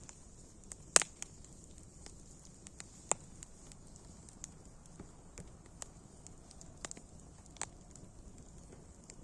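Wood fire crackling: irregular sharp pops and snaps over a steady faint hiss, the loudest pop about a second in.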